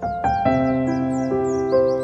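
Calm new-age background music: soft keyboard chords struck and held, with new notes entering partway through, and quick high chirps like birdsong running above them.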